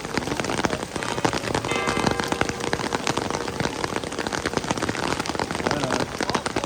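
Heavy rain falling and pattering, dense drops ticking close by. Briefly, about two seconds in, a short pitched tone sounds over it.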